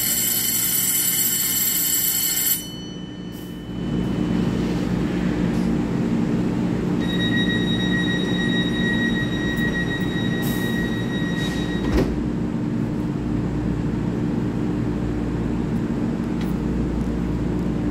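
A platform bell or alarm rings in many high tones and cuts off about two and a half seconds in. Then comes the steady hum of an EMU3000 electric train standing at the platform. A steady high beep sounds for about four seconds and ends in a thud at about twelve seconds, as the train's sliding doors shut.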